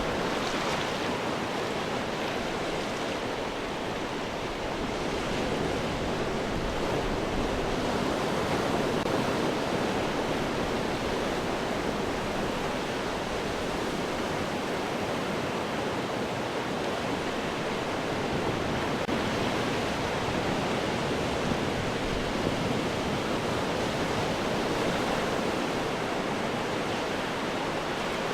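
Ocean surf washing against rocks: a continuous dense rush of water with gentle swells in loudness.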